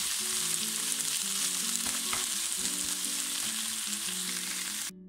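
Fried onions, garlic and cooked spinach sizzling in a nonstick frying pan while being stirred with a wooden spoon, a steady hiss. Soft background music sits underneath, and the sound cuts out briefly near the end.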